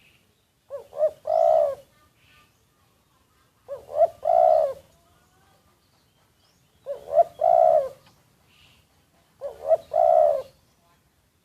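Spotted dove cooing: four phrases about three seconds apart, each two short notes followed by a longer coo. Faint chirps from other birds can be heard between the phrases.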